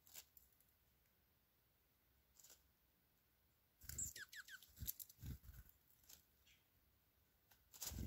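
Dark-eyed junco calls and foraging noises in dry leaf litter. About four seconds in comes a quick run of four short falling chirps, with scattered faint rustles and ticks and a few soft low thumps.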